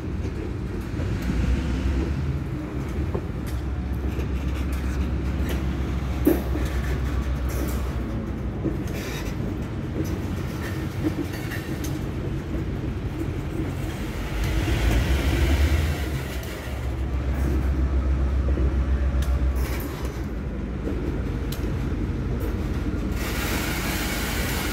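Freight train of covered hopper cars rolling slowly past, a continuous low rumble of wheels on rail, with a single sharp knock about six seconds in.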